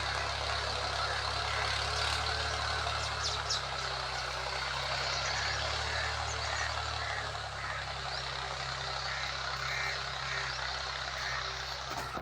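Tractor engine running steadily at a low rumble, its pitch shifting slightly a few seconds in and again around the middle.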